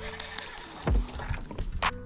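Handling knocks in a kayak: a sharp click, a low thump about a second in and another knock near the end, over a steady low background hum.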